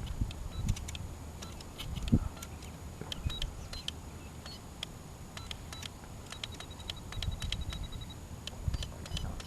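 Irregular small mechanical clicks and ticks, with a short run of rapid, even ticking near the middle, over intermittent low rumbling.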